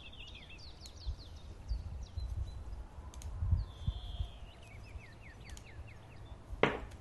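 Small birds chirping and singing, in quick series of short falling notes with a brief buzzy trill partway through, over low thumps. A single sharp click sounds near the end.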